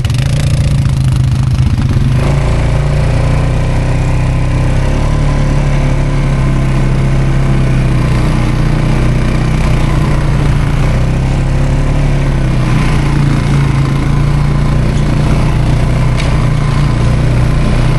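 ATV engine running steadily and loudly as the quad drives along a snowy trail.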